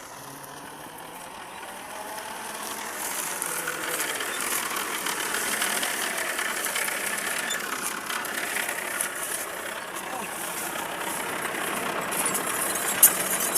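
Farm tractor's diesel engine running, growing louder over the first four seconds and then holding steady, with a sharp click near the end.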